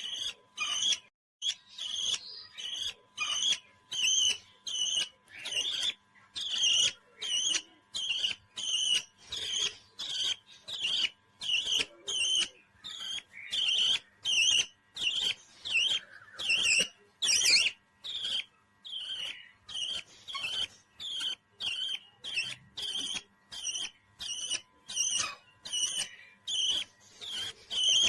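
A pet parrot chirping over and over, short high calls about one and a half a second, evenly spaced with brief pauses between.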